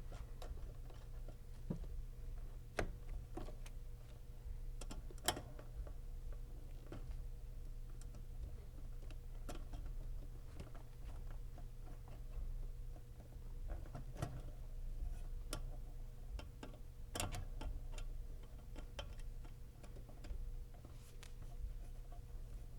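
Scattered small clicks and taps at irregular intervals from hand work on heat-strip wiring, over a steady low hum.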